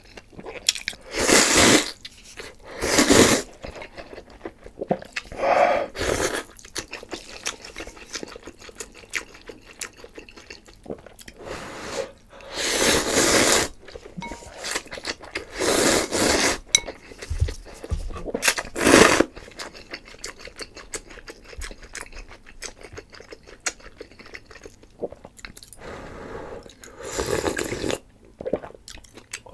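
Close-miked eating: steady chewing with many small wet clicks. About seven louder noisy bursts of roughly a second each break it up.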